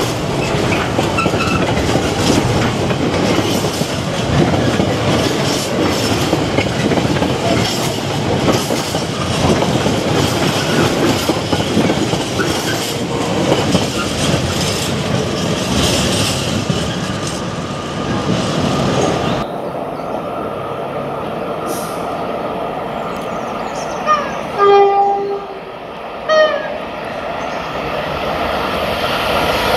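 Container freight train wagons rolling past, with a steady rumble and wheel clatter. After a sudden change to a quieter scene, an approaching Class 90 electric locomotive sounds short horn blasts about 25 s in.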